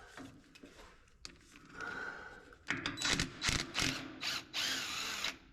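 Power tool running in several short bursts, the last one longest, backing out a bottom bolt on a dump truck's hydraulic reservoir tank.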